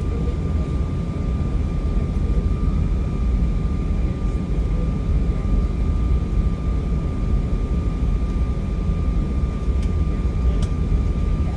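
Steady jet cabin noise inside an Embraer E175: a deep rumble with a thin, constant whine from its General Electric CF34 turbofan engines, heard through the cabin walls.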